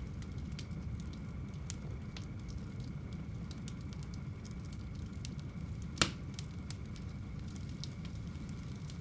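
Wood fire burning in a home fireplace: a steady low rumble of flames with scattered small crackles, and one loud sharp pop about six seconds in.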